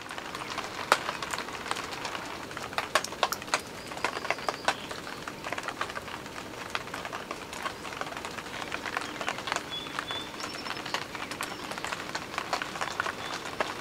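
Steady rain falling outdoors, with many irregular sharp taps of drops landing close by.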